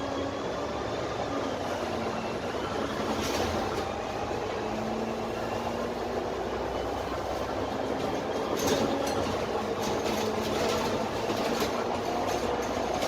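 Dennis Trident double-decker bus under way, heard from the lower deck: the Cummins ISMe diesel and Voith automatic gearbox running steadily, with a faint high whine rising and falling in the first few seconds. From about the middle on, the body and fittings rattle and click over the road.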